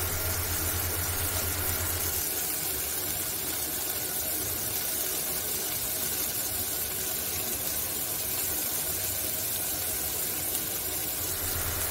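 Sliced onions and green capsicum frying in a pan, a steady sizzling hiss. A low hum runs under it, drops away about two seconds in and returns near the end.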